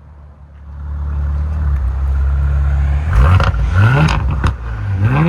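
Audi RS5's 2.9-litre twin-turbo V6 through a custom stainless full exhaust, running low and steady and then revved in quick blips from about three seconds in, with sharp exhaust pops between the revs.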